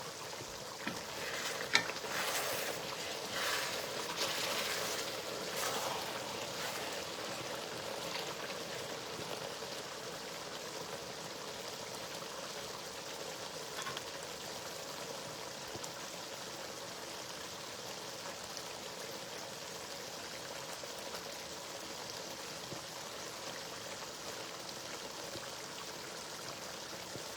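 Spinach stew simmering in a pot: a steady bubbling hiss, a little busier for the first several seconds.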